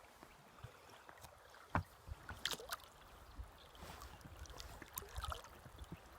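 Small boat drifting down a river: faint water splashing and lapping against the boat, with scattered small knocks and one sharp knock just before two seconds in.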